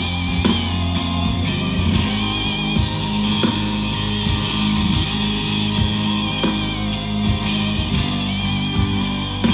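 Live rock band playing an instrumental passage: electric guitars over bass and a steady drum beat, with no vocals.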